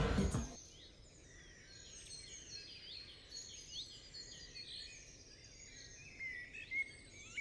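Faint birdsong: many small birds giving short high chirps and little rising and falling calls over a quiet outdoor background hum.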